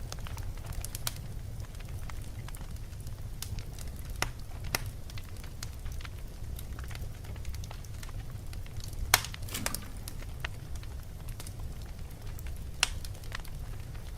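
Wood fire burning in a fireplace: a steady low rumble with scattered crackles and pops, the loudest pop about nine seconds in.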